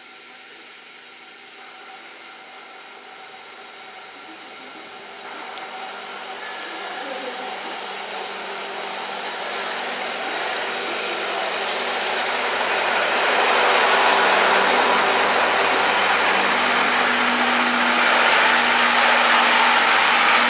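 ED75 AC electric locomotive and 12-series passenger coaches rolling into the station and past close by. The train noise builds steadily as it nears and is loudest as the coaches pass.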